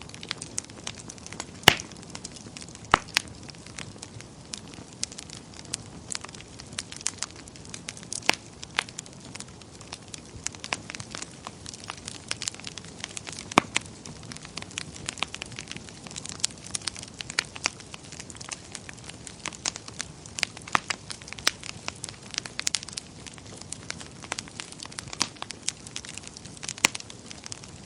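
Wood fire burning in a fireplace, crackling and popping irregularly over a steady soft hiss. The sharpest pop comes about two seconds in.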